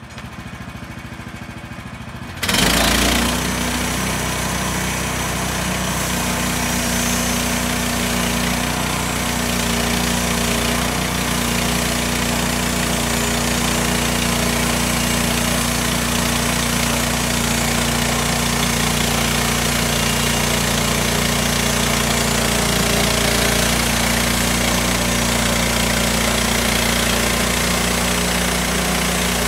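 Small petrol engine starting: about two seconds of quieter cranking, then it catches roughly two and a half seconds in and runs steadily, the sawmill's engine brought up to run the bandsaw.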